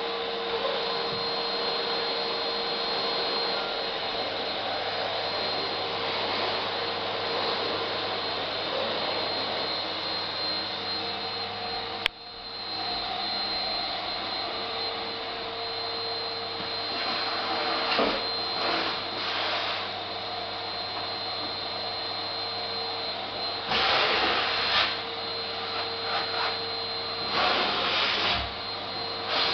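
Vacuum cleaner running steadily, its motor noise carrying a high steady whine. About twelve seconds in there is a sharp click and the sound briefly drops, and near the end it comes in louder rushes several times.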